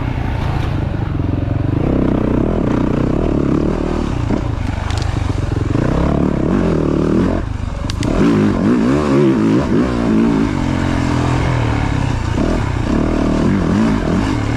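Yamaha YZ450 dirt bike's single-cylinder four-stroke engine being ridden on the trail, revving up and down with the throttle. About eight seconds in, the throttle drops off briefly, then the engine pulls hard again.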